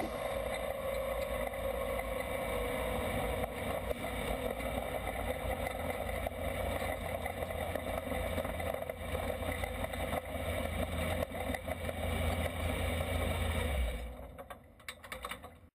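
Race car engine running at a steady speed, a constant drone that fades out near the end.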